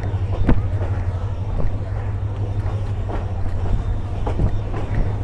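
Shuttle train heard from its carriage roof: a steady low rumble with wind on the microphone, and a few sharp knocks about a second or so apart.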